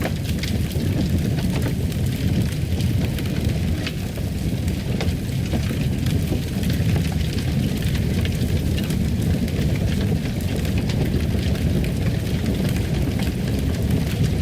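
Fireplace fire crackling: a steady low roar with scattered small pops and snaps.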